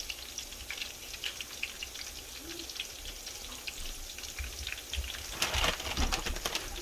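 French fries deep-frying in hot grease: a steady sizzle with a dense patter of small crackling pops, louder for the last second or so.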